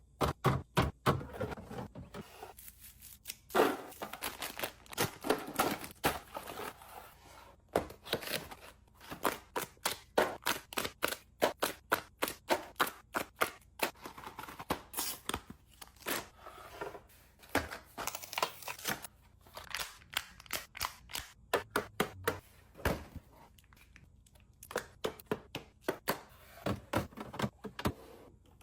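Fast, irregular clicks, taps and clatter of containers, lids and food items being handled and set down while restocking a fridge.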